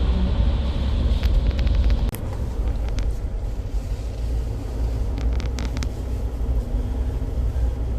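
Steady low rumble of a four-wheel-drive vehicle being driven on a snow-covered road, heard from inside the cabin, with scattered light clicks and ticks about a second in and again past the middle.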